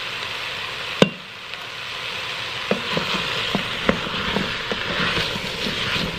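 Chicken and vegetables sizzling in the stainless steel inner pot of an electric pressure cooker while a wooden spoon stirs them, knocking against the pot. There is one sharp knock about a second in, then a run of lighter knocks from a little before halfway.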